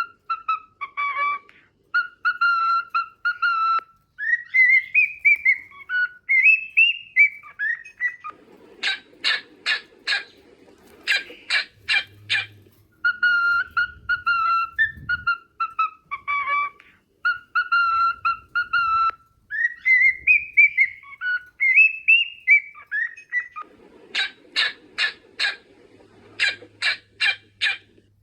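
A cockatiel whistling a song. Held whistled notes and rising glides run into bursts of rapid chirps. The same phrase sequence plays twice, about fifteen seconds apart.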